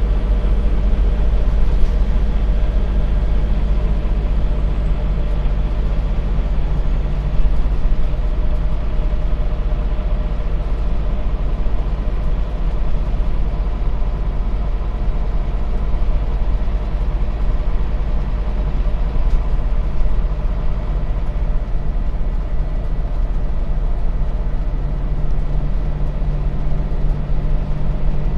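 Scania bus heard from inside the passenger cabin: its engine running steadily with a deep hum and road noise, the engine note shifting slightly now and then.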